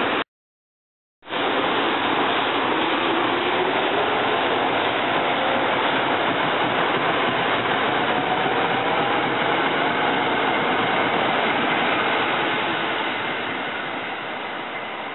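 SEPTA Silverliner IV electric multiple-unit train running close by: a loud, steady rush of train noise with a faint rising whine as it gathers speed, fading over the last few seconds. The audio drops out for about a second just after the start.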